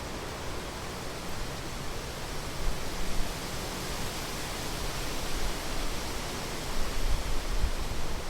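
The Rhine Falls, a large river waterfall, rushing steadily, with the water's low rumble swelling now and then.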